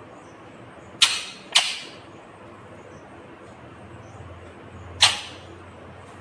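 Indian ringneck parakeet giving three short, harsh shrieks: two in quick succession about a second in, a third about four seconds later.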